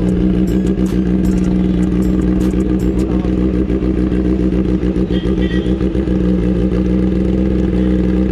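Kawasaki ZX-10R superbike's inline-four engine with a loud aftermarket exhaust, idling at a steady pitch, with a few faint clicks in the first second or so.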